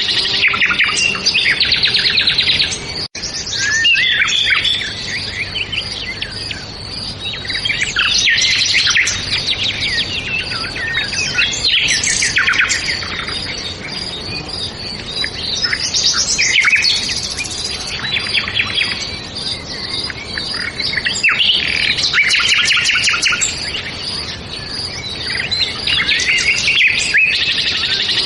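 Songbirds chirping and singing, several at once, in overlapping bursts of quick high trills and chirps.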